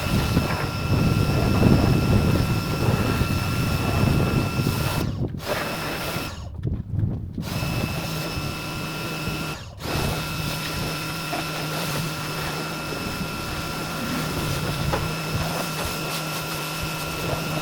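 Pressure washer running, its motor whining steadily under the spray's hiss. The sound cuts out briefly three times between about five and ten seconds in.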